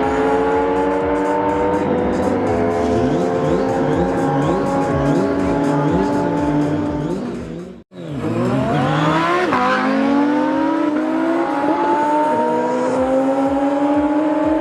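Engines at full throttle accelerating hard. The pitch climbs through each gear and drops sharply at each upshift, a little over two seconds in and again near the middle of the second half. The sound cuts out abruptly for an instant about eight seconds in, then another hard run through the gears follows.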